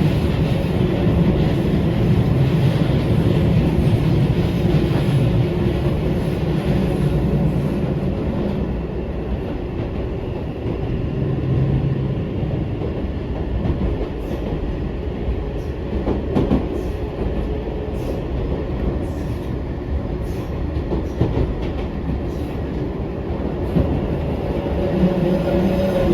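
Eizan Electric Railway 900 series 'Kirara' electric railcar running, heard from inside the car: a steady rumble of wheels on rail, with a low hum that drops away after about eight seconds and scattered clicks of wheels over rail joints in the second half.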